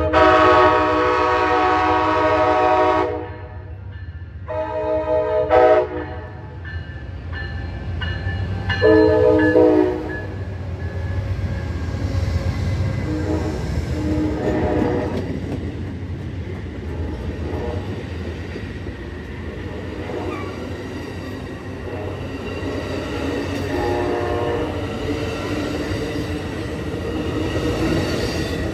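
Train horn sounding three chord blasts, the first one long and ending about three seconds in, the last one ending about ten seconds in. The passing train then keeps up a steady rumble of wheels on rail.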